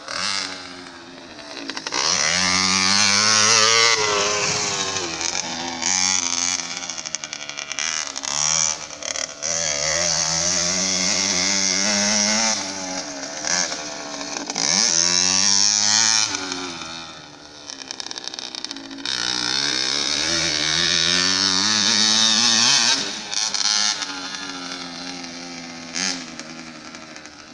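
Motocross bike engine revving up and easing off again and again, its pitch climbing and dropping through the gears. The sound swells loud and fades several times, with lulls about a second in, near fourteen seconds and near eighteen seconds.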